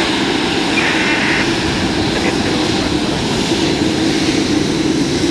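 Jet airliner engines running steadily on the ground, a continuous even noise with no change in pitch.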